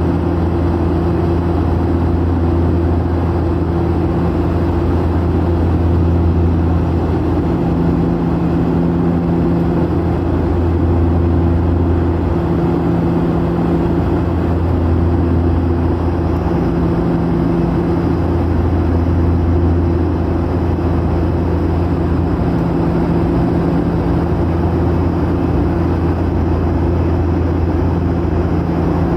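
Aircraft cabin noise: the engines' steady, loud drone with a low hum that swells and fades every few seconds.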